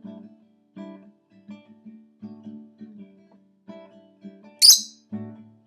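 Acoustic guitar strumming chords in an instrumental break between sung verses. About four and a half seconds in, a pet lovebird gives one short, loud, high squawk over the guitar.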